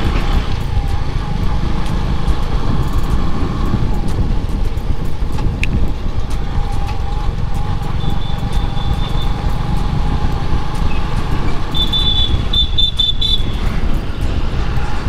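Wind and road noise while riding a motorcycle through traffic. A vehicle horn sounds briefly about eight seconds in, and again as a few short beeps about twelve seconds in.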